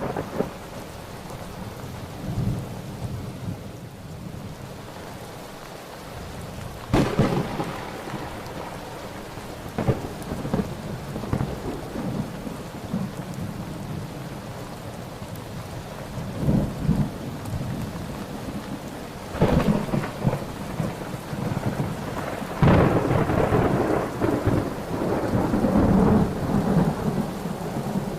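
Thunderstorm: steady rain with repeated thunder, sharp cracks rolling into rumbles, the longest and loudest roll near the end.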